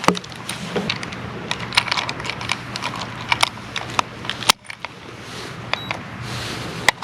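Irregular sharp clicks and light clatter of handling as the trout is hooked onto a fish scale to be weighed, over a steady low hum. The background drops away abruptly partway through.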